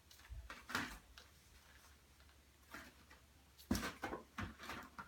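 Fireworks and their packaging being handled: a few scattered taps and rustles, one early and a short cluster of knocks a little over three and a half seconds in.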